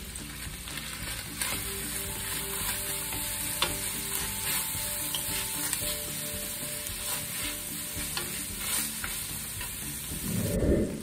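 Ground turkey and diced onion sizzling steadily in a stainless steel frying pan, stirred now and then with a wooden spoon.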